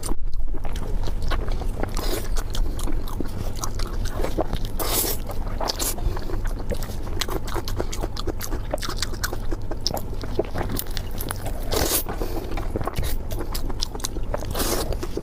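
A person chewing and biting food close to the microphone: a steady run of wet mouth clicks and smacks, with a few louder crunches about five and twelve seconds in, over a low steady hum.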